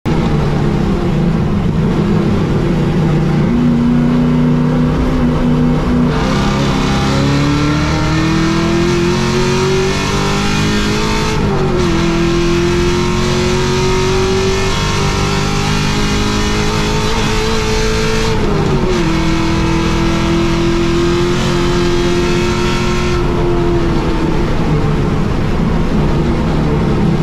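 Holden VY Commodore race car's engine heard from inside the cabin, pulling hard under full throttle. Its pitch climbs steadily and drops sharply at two upshifts, about eleven and eighteen seconds in, then eases near the end.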